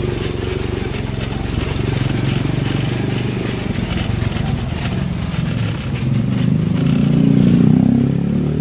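Small motorcycle engine running steadily while riding, swelling louder about six seconds in as it picks up speed.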